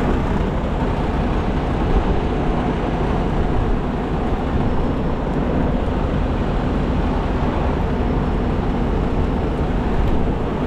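Rotator wrecker's diesel engine running steadily, powering the hydraulics while the boom is being stowed.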